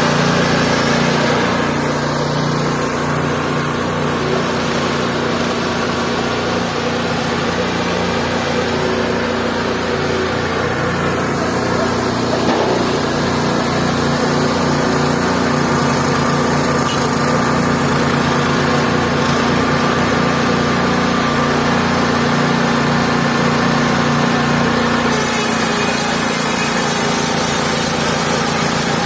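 Mobile band sawmill's small engine running steadily, with a brighter high hiss joining about 25 seconds in.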